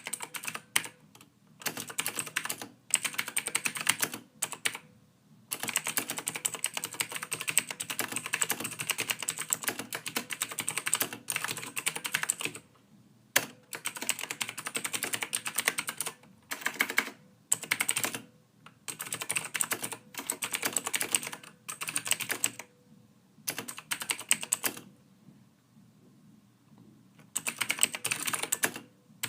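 Soft typing on a computer keyboard: runs of rapid keystrokes lasting a few seconds each, broken by short pauses, the longest about two seconds long near the end.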